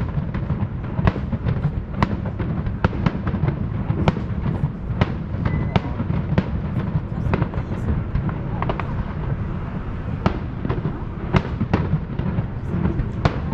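Fireworks bursting in a quick, irregular string of sharp bangs, about two a second, over a steady low rumble.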